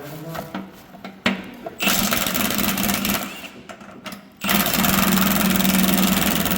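Impact wrench rattling in two bursts, a shorter one about two seconds in and a longer one from about four and a half seconds, as a bolt is run out.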